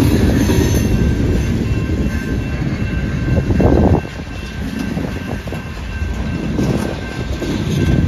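Freight train cars rolling past: a steady rumble of steel wheels on rail. It surges louder about three and a half seconds in, then drops off and slowly builds again.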